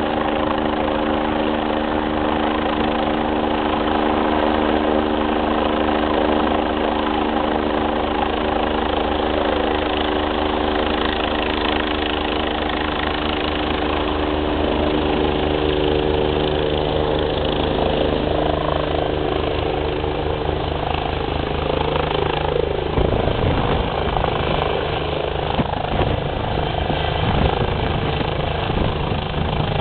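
Eurocopter EC 145 twin-turbine helicopter approaching and landing. A steady turbine and rotor hum with several held tones gives way, about two-thirds of the way in, to a louder, rougher pulsing rotor beat and wind from the downwash buffeting the microphone as it comes down close by.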